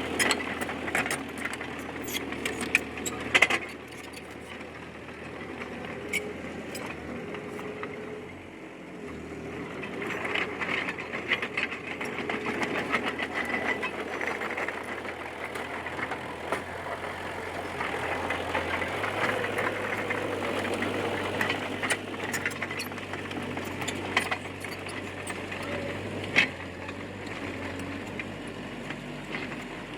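Diesel engine of a D20P bulldozer running steadily while it works, swelling louder for stretches under load, with several sharp knocks from the machine.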